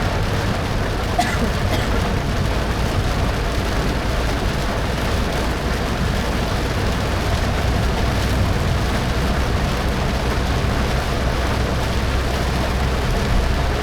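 Car driving on wet roads in heavy rain: a steady wash of tyre and rain noise over a low engine and road rumble, with one short tick about a second in.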